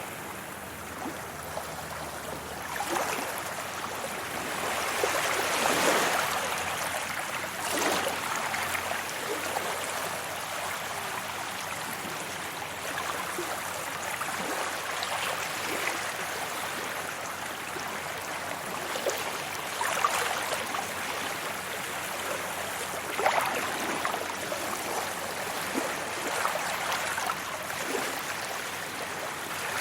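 Sea waves washing up on a beach: a steady wash of water, with a louder splash of a breaking wave every few seconds.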